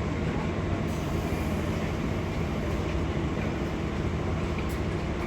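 Fujikyu 6000 series electric train running, heard from inside the car: a steady rumble of wheels on rail with the low hum of its DC traction motors under field-added excitation control.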